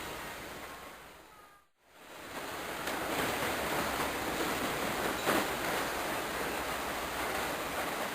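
Steady rushing, hiss-like noise with no distinct events, fading out to a brief silence a little under two seconds in and then returning.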